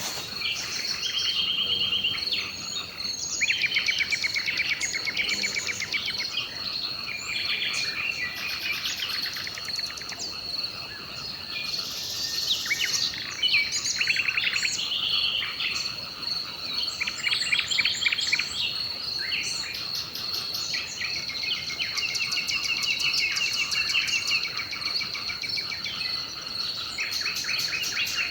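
Several songbirds singing overlapping chirps, trills and buzzy phrases over a steady, unbroken high-pitched insect trill.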